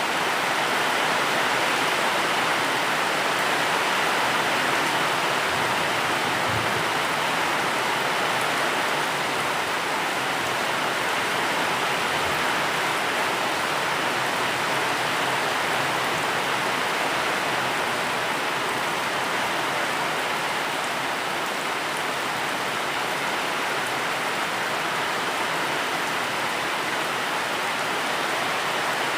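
Steady heavy rain, a dense even hiss of falling drops with no breaks.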